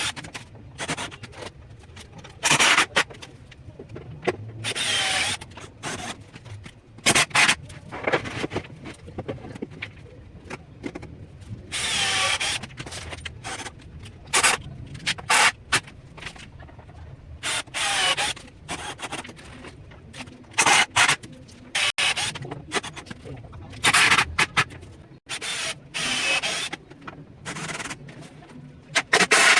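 A power tool working MDF in short bursts of up to about a second, many times over with brief pauses between, the pitch shifting within some bursts.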